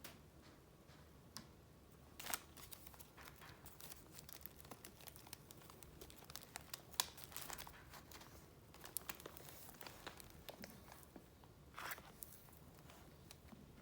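Paper and wrapping being handled: soft rustling with many short, sharp crinkles, the loudest about two, seven and twelve seconds in.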